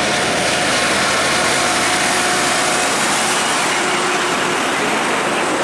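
A road vehicle driving past: a steady rush of engine and tyre noise whose hiss thins out near the end as it moves away.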